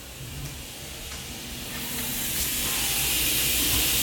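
Water running and spraying steadily, growing louder over the first couple of seconds.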